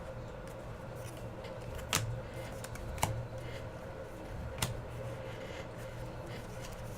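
Baseball trading cards being handled and flipped through, with three sharp clicks and taps. A steady low hum runs underneath.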